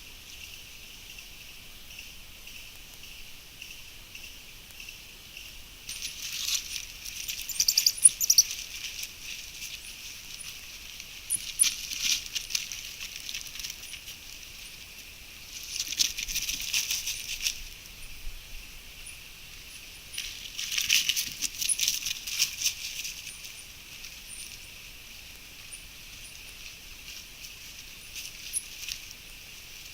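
Outdoor natural ambience: a steady high hiss with four bursts of crackling rustle, each a second or two long, and faint short high chirps scattered throughout.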